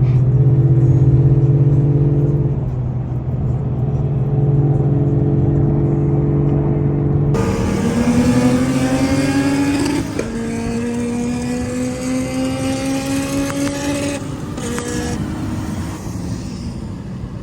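Car engine running at a steady cruise, then accelerating hard about seven seconds in. The note climbs, drops with a gear change about ten seconds in, climbs again, then eases off.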